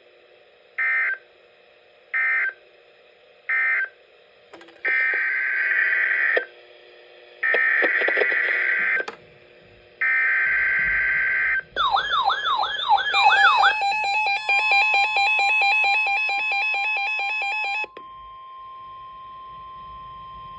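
NOAA Weather Radio emergency alert data bursts: three short bursts that end the tornado warning, then three longer buzzing bursts that carry the coded header of the next warning. Then come warbling sweeps and a rapid electronic beeping from an alert receiver, and about two-thirds of the way in the steady 1050 Hz weather-radio warning alarm tone begins and holds.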